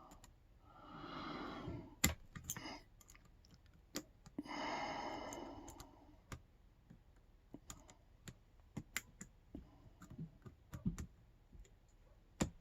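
Small sharp metal clicks and taps, scattered and irregular, from tools and padlock parts being handled while a retaining clip is worked off a disassembled Yale K300 padlock. Two longer soft exhales come about a second in and again around five seconds in.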